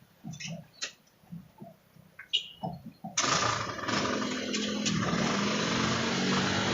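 Faint scattered clicks and a short high chirp, then about three seconds in a loud steady motor-like hum with hiss starts suddenly and runs on.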